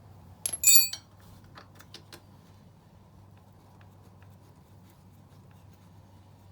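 A metal tool or part clinks sharply against metal about half a second in, ringing briefly at several high pitches, followed by a few light clicks. A low steady hum runs underneath.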